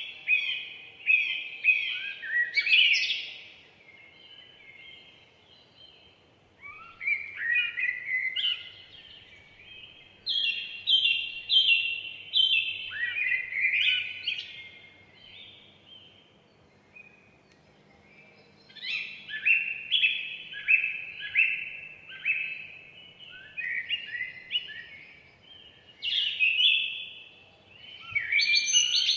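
Forest songbirds singing: a run of song phrases of quick, repeated high notes, each lasting a few seconds, with short pauses between them.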